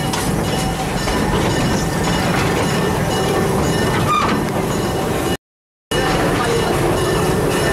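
Amusement-park passenger train running along its track, heard from aboard an open car: a steady rolling noise, broken by a sudden half-second gap of silence about five and a half seconds in.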